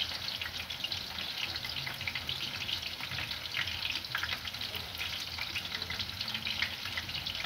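Stew ingredients frying in hot oil in a pot, a steady sizzle with many small crackles and pops.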